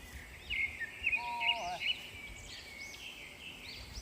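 Several small birds chirping and singing in quick, repeated high notes, with a short, lower held call about a second in.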